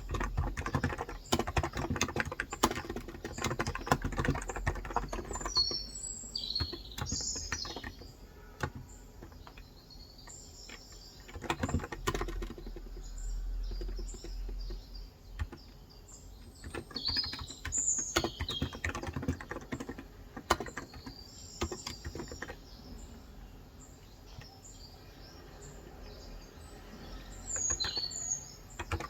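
Typing on a Cox Endeavor electro-capacitive (contactless) 35 g tenkeyless keyboard: quick continuous keystrokes for the first few seconds, then sparser bursts with pauses between them. Small birds chirp outside in short clusters of high notes several times.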